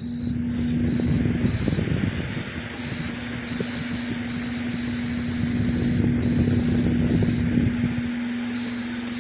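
Electric stand fan running, its air buffeting the microphone with an uneven low rumble over a steady hum; about eight seconds in the rumble settles into a smoother low hum. A thin high tone cuts in and out throughout.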